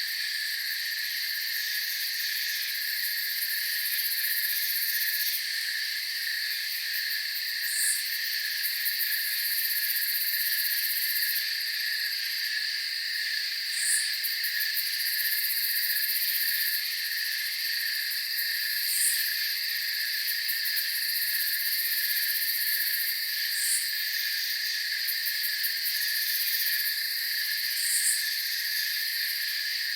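Night chorus of crickets and other insects chirping steadily in several overlapping high-pitched trills, with a brief, higher chirp standing out about every five seconds.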